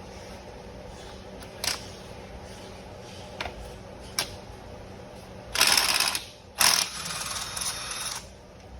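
Ratchet working a spark plug socket: a few single tool clicks and knocks, then two runs of rapid clicking, the second longer and ending about a second before the end.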